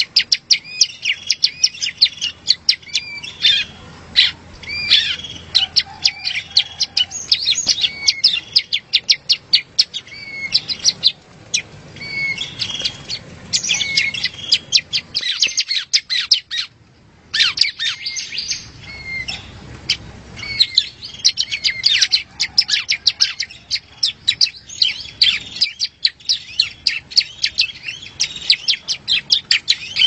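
A prenjak singing a rapid, dense string of sharp high chirps mixed with short slurred notes, with a pause of about a second around the middle.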